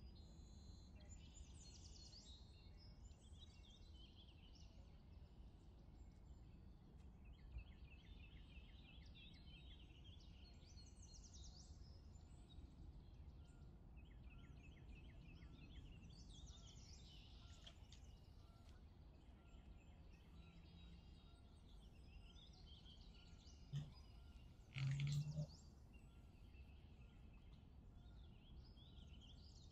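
Faint background birdsong, scattered chirps and quick trills, over a low steady hum. Two short low sounds about four-fifths of the way through are the loudest thing in it.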